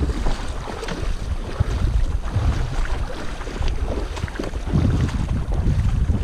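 Wind buffeting the microphone in a low, uneven rumble, with scattered short clicks on top.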